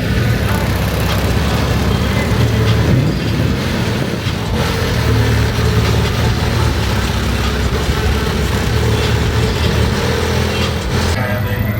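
Car engines running with a steady low exhaust note.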